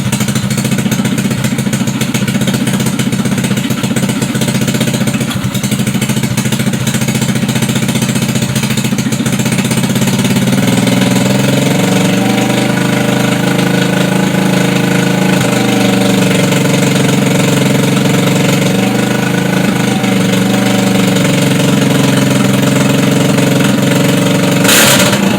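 GY6 150cc four-stroke single-cylinder scooter engine with a PWK 28 mm slide carburetor running on a test bench. It runs steadily, and its speed picks up slightly about ten seconds in, then holds.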